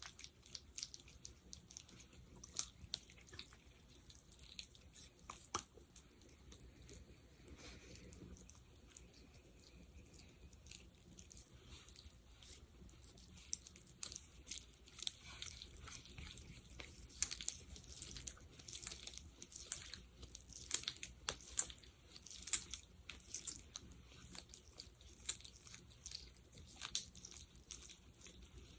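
Fingers working a sticky gel close to the microphone, making quick wet clicks and crackles. The crackling gets denser and louder from about halfway through.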